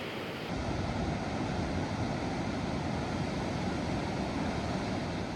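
Steady rushing of ocean surf mixed with wind. About half a second in, the noise becomes fuller and lower.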